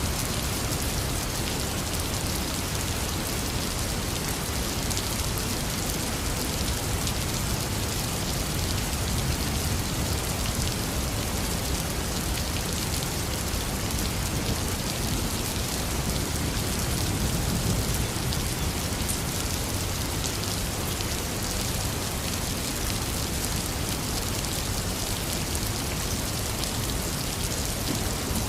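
Heavy rain falling steadily on hard surfaces, a dense patter of drops, with a low rumble underneath that swells slightly about two-thirds of the way through.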